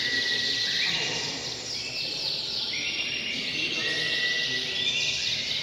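Several canaries singing at once: overlapping high trills and level, buzzing rolls, one phrase after another with no pause.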